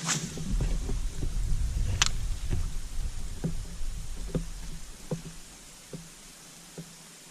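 Handling noise on a kayak: a low rumble that fades after about five seconds, a sharp click about two seconds in, and a series of light knocks roughly once a second.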